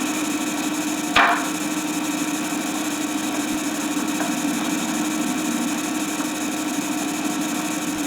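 Steady hiss and hum from an old soundtrack recording, with one short click about a second in.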